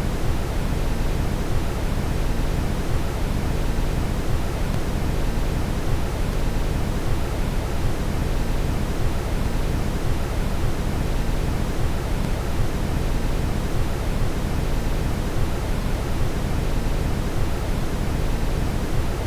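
Steady brown noise: an even, unchanging hiss weighted heavily toward the deep low end, with no pauses or events.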